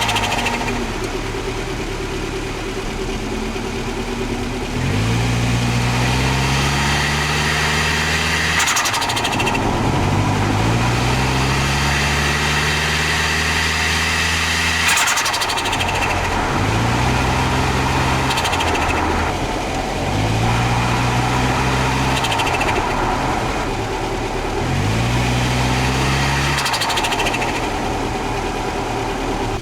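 Toyota Starlet Glanza V's turbocharged 1.3-litre four-cylinder (4E-FTE) accelerating through the gears, its pitch rising with each pull, about five times. At the lift-offs between gears there is a short high rushing flutter from the turbo.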